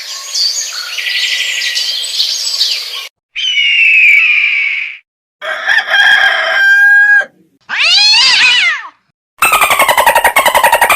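A run of short, separate sound effects with brief silences between them. First come about three seconds of birds chirping, then four quick effects in turn: a gliding whistle-like tone, a stepped tonal sound, a call that rises and falls in pitch, and a fast buzzing pulse.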